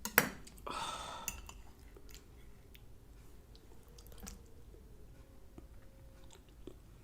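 A person chewing a mouthful of chicken-and-shrimp lasagna roll in a creamy Alfredo sauce, with soft mouth sounds and faint small clicks. A sharp click comes just after the start.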